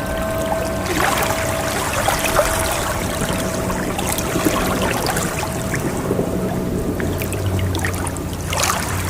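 Ocean waves washing and fizzing steadily, swelling again near the end. The ring of a struck chime fades away over the first few seconds.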